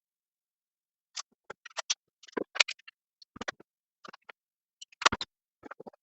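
Scattered light clicks and knocks at an uneven pace, with a few louder knocks among them, as workshop parts and tools are handled.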